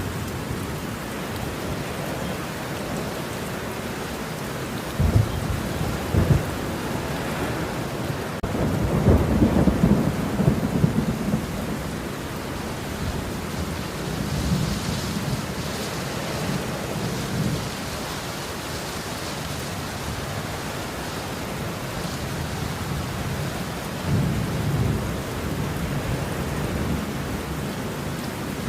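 Steady rain with rolling thunder. Sharp thunder cracks come about five and six seconds in, then a long loud rumble peaks a few seconds later. Fainter rumbles roll through later on.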